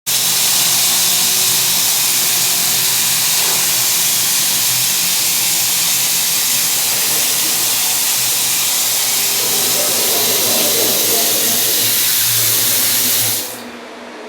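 Water spraying hard from a bathroom tap fitting, a loud steady hiss that stops abruptly about thirteen seconds in as the flow is shut off.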